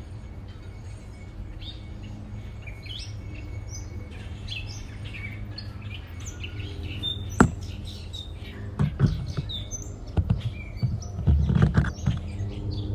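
Small wild birds chirping, a steady run of short high chirps over a low background rumble. A sharp click about seven seconds in, and a few low thumps near the end.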